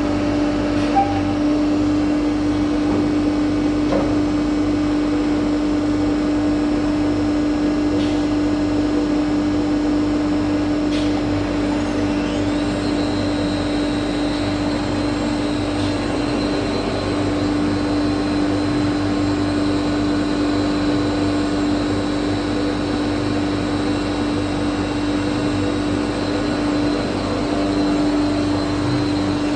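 CNC router running steadily while machining wardrobe panels: a constant mechanical hum with a steady whine, joined about twelve seconds in by a thin high whine.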